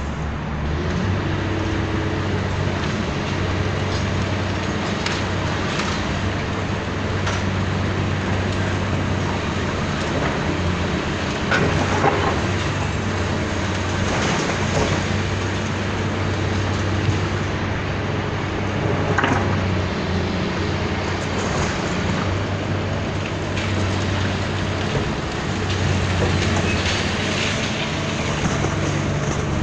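Diesel engine of heavy demolition machinery running steadily, with scattered knocks and crashes of material being broken.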